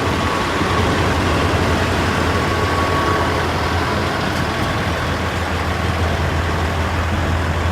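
Diesel semi-truck engine idling close by: a steady, loud, low hum under a wash of engine and lot noise, with a faint steady whine during the first few seconds.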